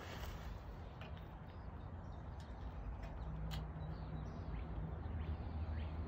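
A bird chirping repeatedly in short falling notes, about two a second in the second half, over a low steady rumble, with one sharp click about three and a half seconds in.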